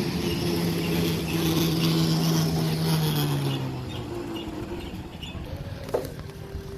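A steady motor hum that drops slightly in pitch and fades away about four seconds in, followed by a single sharp click near the end.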